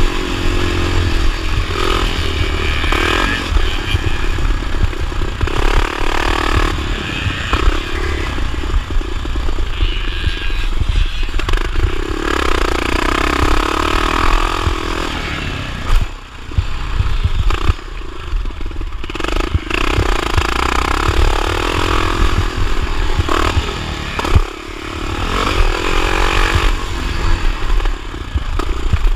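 Motocross motorcycle engine racing round the track, revving up and down through the gears, with heavy low rumble and clatter. The throttle shuts off briefly twice, about halfway through and again later.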